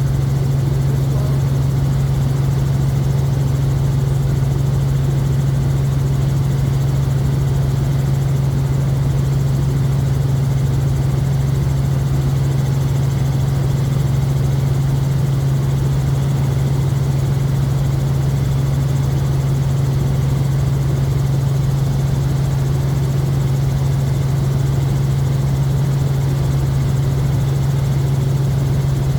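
Helicopter in flight, heard from inside the cabin: a steady, loud drone with a strong low hum that holds constant throughout.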